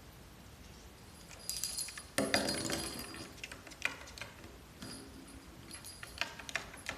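Small metal objects jingling and clinking in irregular bursts, starting about a second and a half in, with ringing high tones and a few sharp clicks.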